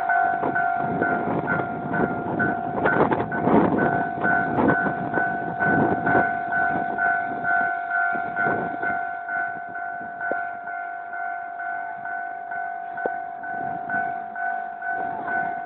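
Level-crossing warning signal sounding steadily, with a tone that pulses about twice a second. Under it a diesel-hauled coal train rumbles and clatters over the crossing, loudest in the first few seconds and then easing off.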